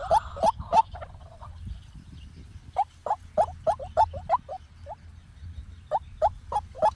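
White-breasted waterhen calling: short notes repeated about four times a second in runs, the first run stopping about a second in and the calling starting again after a pause of about two seconds.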